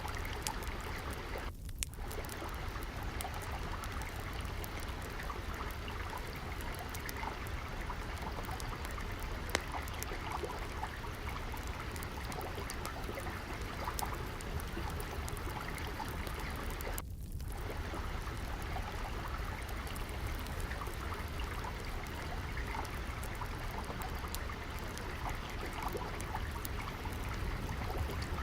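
Steady flowing-stream water noise mixed with a crackling wood fire, its small sharp pops and snaps scattered throughout. The water noise drops out for an instant twice, about two seconds in and again past the middle.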